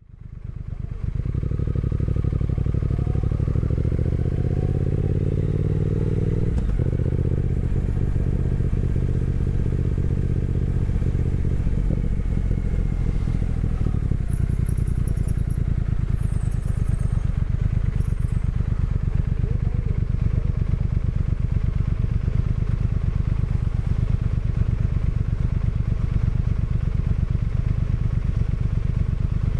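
Motorcycle engine running on a ride. Its pitch rises for the first several seconds, drops sharply about six and a half seconds in, then settles into a steady run.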